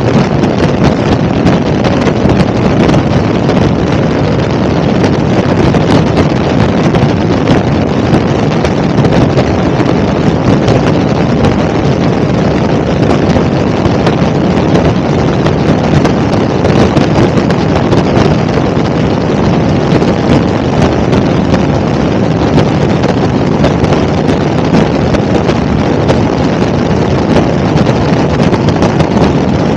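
Helicopter in flight: a loud, steady drone with wind noise on the microphone.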